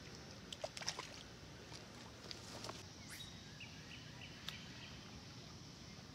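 Quiet outdoor ambience at a pond bank, with a few small clicks and rustles about a second in. A bird calls around the middle: one falling chirp, then a short quick series of high chirps.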